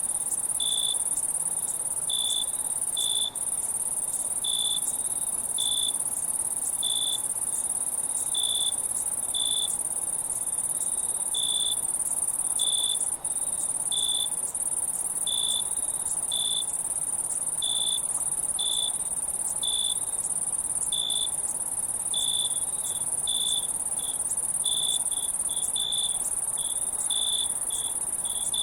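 Steady high-pitched insect chorus with a second insect chirping on top in short notes about once a second. The notes come faster in the last few seconds.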